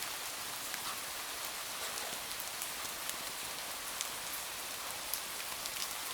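Steady hiss of rain falling, with scattered sharp ticks through it.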